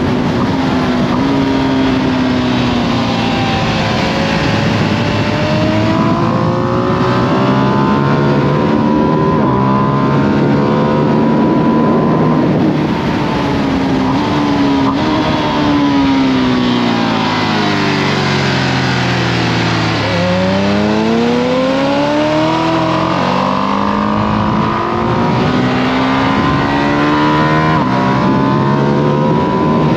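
Ducati Panigale V2S V-twin on its stock exhaust, accelerating up through the gears with stepped shifts, then dropping in pitch through a braking zone to a low point about two-thirds in and accelerating hard again, over wind rush.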